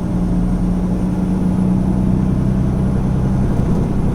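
Semi truck's diesel engine running steadily at cruising speed, a low even hum over road and tyre rumble.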